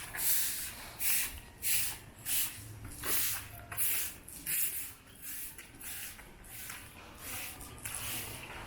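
Footsteps at a steady walking pace, each one a short gritty scuff of shoes on an ash-dusted paved street, about three every two seconds, growing a little fainter about halfway through.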